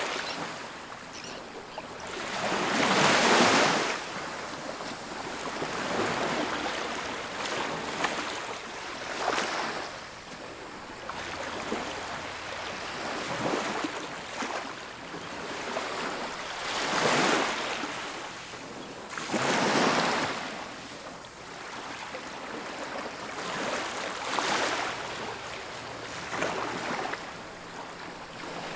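Ocean surf breaking on a beach: a hissing wash of waves that swells and fades every few seconds, loudest about three seconds in and again near twenty seconds.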